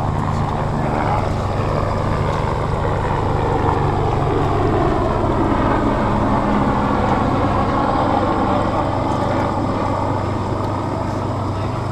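A motorboat engine running steadily under way, a constant low hum beneath rushing wind and water noise.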